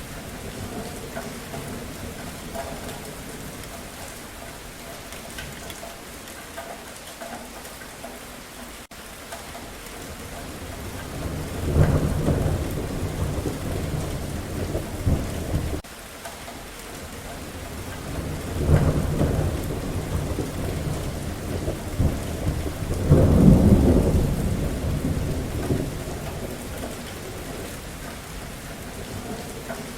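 Steady rain falling, with rolling thunder rumbling three times: about twelve seconds in, near nineteen seconds and around twenty-three seconds, the last the loudest. The first rumble cuts off suddenly.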